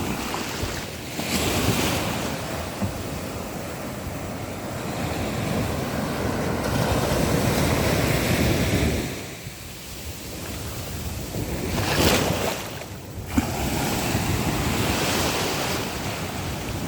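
Sea waves breaking and washing onto the shore, the surf swelling and easing in surges every few seconds, with a brief lull about halfway through.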